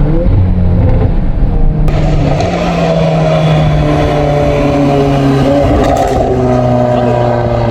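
Volkswagen Golf 8R's 2.0-litre turbocharged four-cylinder engine running on the move. Its note slides slowly lower in pitch, with a couple of small jumps along the way.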